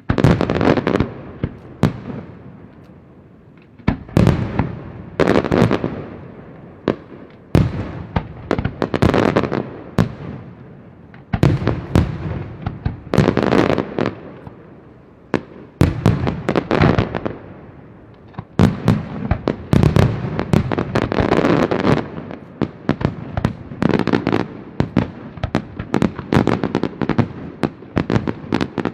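Aerial fireworks display: shells bursting overhead in rapid clusters, sharp bangs each trailing into a crackling fizz, the bursts coming faster and more densely toward the end.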